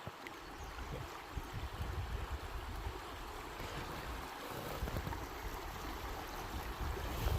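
Fast river current rushing steadily around a canoe, with irregular low rumbling underneath.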